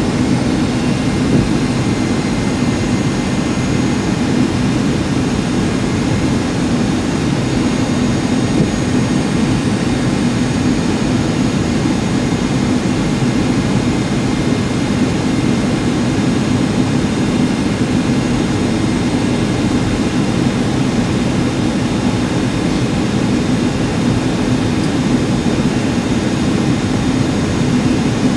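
Steady in-flight cabin noise of a Boeing 757-200: jet engine drone and airflow heard from inside the passenger cabin, a deep even rumble with faint steady high whines above it.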